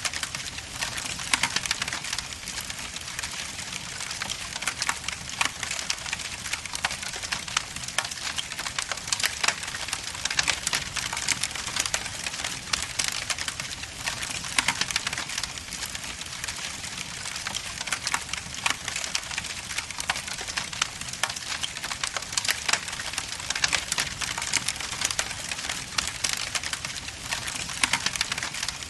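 Wood fire crackling in a fireplace: logs burning with a steady hiss and a continuous run of sharp pops and snaps.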